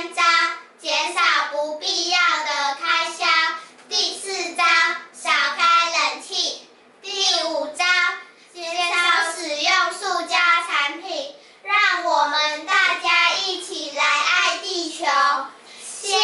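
A child's voice talking on without stopping, broken only by short pauses between phrases.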